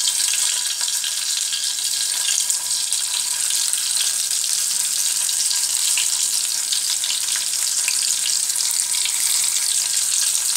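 Stuffed bitter gourds (karela) shallow-frying in hot oil in a pan: a steady sizzle with small crackles as the gourds are laid in one by one.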